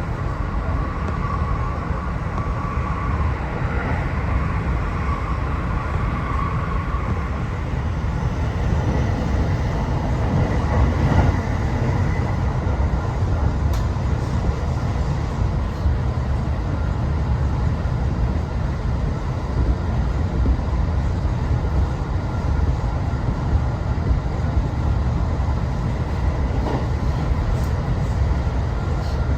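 JR West Special Rapid Service train running at speed, heard from inside the car: a steady rumble of wheels on rail. A faint whine in the first several seconds fades out.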